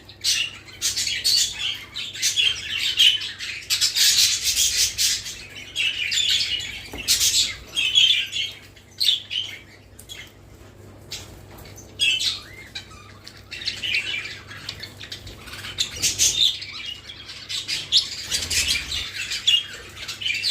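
Pet budgerigars chattering and warbling in quick, irregular bursts of high chirps, with a quieter lull about halfway through.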